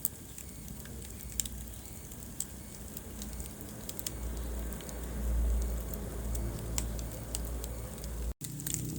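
Wood fire burning in a fireplace: a steady low rumble of flames with scattered sharp crackles and pops. The rumble swells around the middle, and the sound cuts out for an instant near the end.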